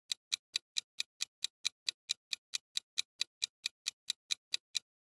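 Countdown timer sound effect: even, clock-like ticking, a little over four ticks a second, stopping shortly before the end.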